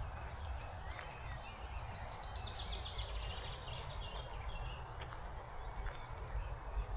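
Heavy rain falling with a steady hiss, and wind buffeting the microphone with a low rumble. A songbird sings a short warbling phrase about two seconds in, and a few sharp taps stand out from the rain.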